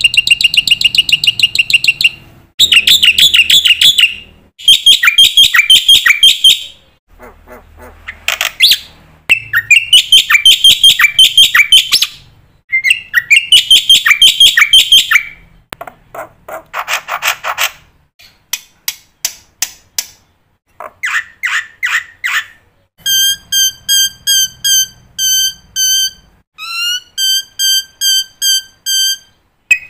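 Black-winged starling (jalak putih) singing loudly in a string of varied phrases: harsh rapid rattles and chattering trills broken by short pauses, then near the end a run of evenly repeated whistled notes at about three a second. It is a full song laden with mimicked fills, the kind played to teach young starlings.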